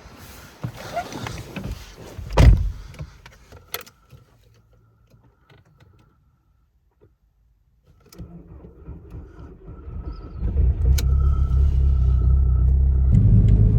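A few knocks and clicks with one loud thump, then a steady low engine rumble that builds from about eight seconds in and runs strongly for the last few seconds. The engine is the SEAT Leon FR's turbo diesel.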